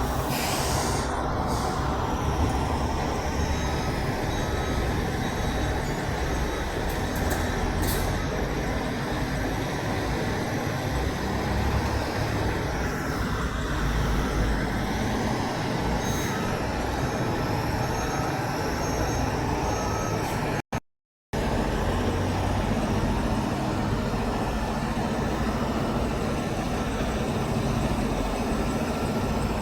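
Steady road noise of semi trucks running past, with a few brief high hisses about a second in, around eight seconds and around sixteen seconds. The audio drops out completely for about half a second roughly two-thirds of the way through.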